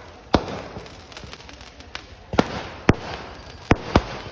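A series of sharp bangs at uneven intervals: one about a third of a second in, then four more close together in the second half, each dying away quickly.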